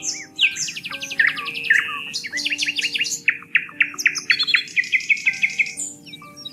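Small songbirds chirping and singing in quick overlapping phrases, with rapid trills and down-slurred chirps, over soft background music of slow held notes.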